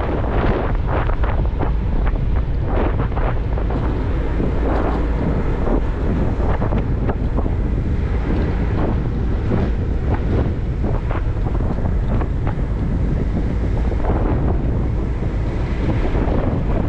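Wind buffeting the microphone of a moving motorcycle: a steady, loud low rumble broken by many short gusts.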